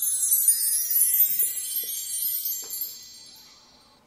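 Shimmering wind-chime sound effect: a cascade of many bright, high ringing tones that fades away over about three seconds, marking a magic reveal.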